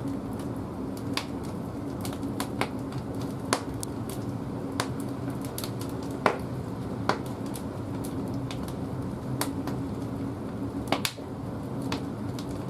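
Large logs burning in a wood-fired boiler's firebox: a steady low hum of the fire with sharp pops and crackles of the burning wood at irregular intervals.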